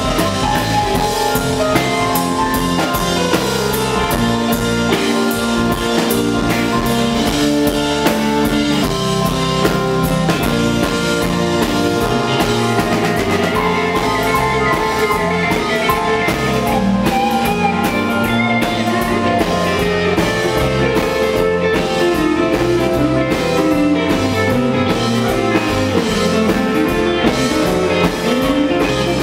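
Live rock band playing an instrumental passage: steady drum kit beat under guitars.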